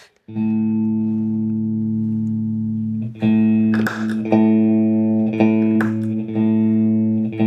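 Clean electric guitar, a Strat on its neck pickup through a Fractal FM9 amp model: one chord rings out for about three seconds, then is strummed again several times in a loose rhythm.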